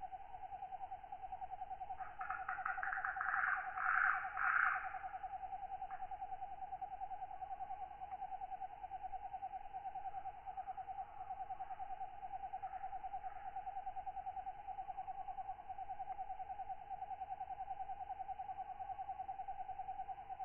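Night insect ambience: a steady, fast-pulsing trill runs throughout, and from about two seconds in a katydid gives three loud raspy calls, with fainter calls later.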